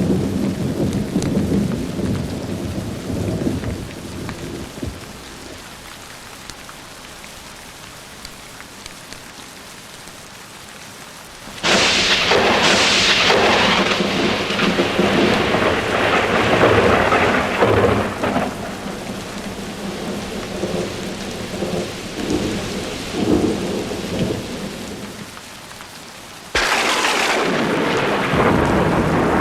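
Thunderstorm: steady rain with rolling thunder. A rumble dies away over the first few seconds. A sharp thunderclap breaks about twelve seconds in and rolls on for several seconds, and another sudden clap comes near the end.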